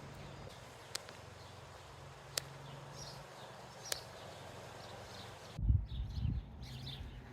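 Faint outdoor ambience with a few distant bird chirps, three sharp clicks roughly a second and a half apart, and a brief low rumble about two-thirds of the way through, the loudest thing in it.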